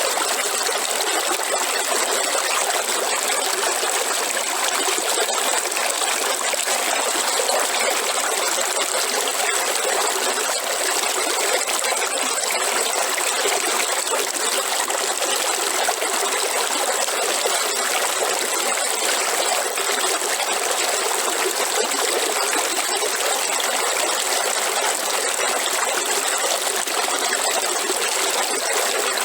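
Waterfall: falling water running steadily, a continuous rushing hiss with no breaks.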